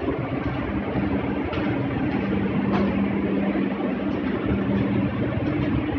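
Ship's machinery running with a steady low hum, and a few faint knocks over it.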